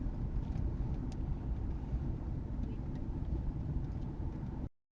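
Steady low rumble of a moving vehicle, with a few faint ticks, that cuts off abruptly near the end.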